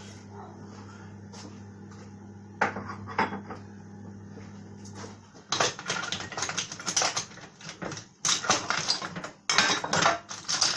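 Kitchen clatter: two light knocks, then from about halfway a dense run of clattering and rattling as containers and utensils are handled. A low steady hum stops just before the clattering begins.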